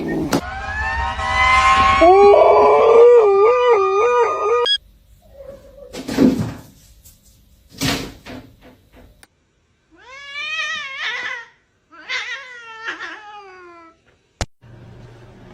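Cats meowing and yowling: a long, loud yowl that wavers up and down in pitch over the first few seconds, then two drawn-out meows that fall in pitch near the end, with a couple of short noisy bursts in between.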